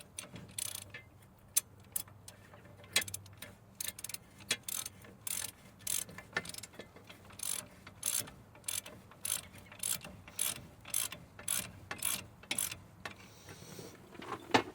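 Hand ratchet wrench clicking in quick, evenly repeated strokes, about two to three a second, as bolts are run in.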